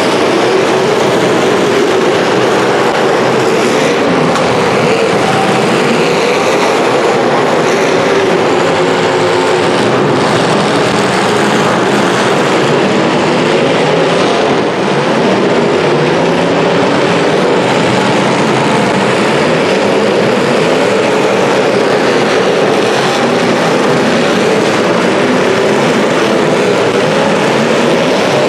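Engines of several demolition derby cars running and revving at once: a loud, continuous, wavering engine noise.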